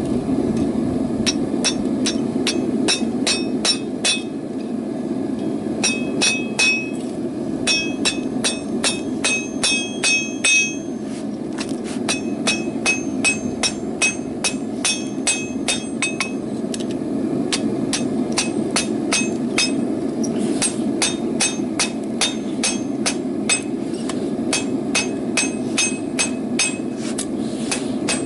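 Hammer blows on hot half-inch rebar over an anvil, struck in quick runs of about three to four a second with brief pauses, many blows leaving a bright metallic ring. A steady low roar runs underneath.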